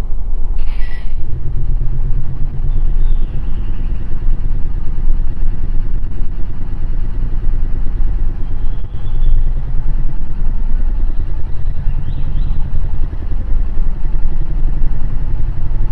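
MRT Line 3 light-rail train running along the line, a loud steady low rumble from wheels and running gear, with a brief high-pitched squeal about a second in and a few faint squeals later.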